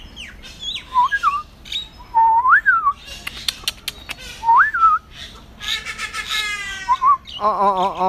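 Aviary birds calling: short whistled notes that rise and fall, a run of sharp clicks about three and a half seconds in, and harsher cat-like calls near the end.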